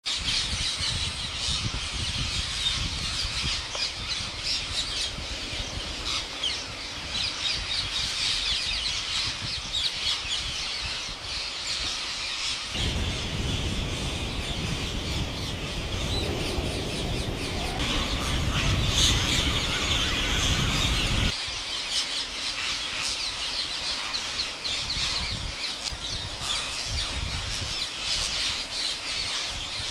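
Pet parrot squawking and calling over and over in short, shrill bursts. A low rumble joins in about halfway through and cuts off suddenly some eight seconds later.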